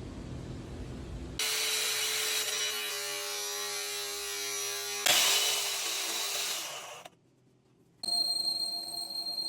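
Power tools working on an axle spindle during its repair, in a few short cuts: a steady whining tool, then a loud rush that fades away, a second's silence, and a high-pitched whine near the end.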